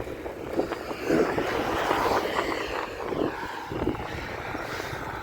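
Wind rushing over the microphone while riding a bicycle along a highway, with a motor vehicle passing that swells and fades between about one and three seconds in.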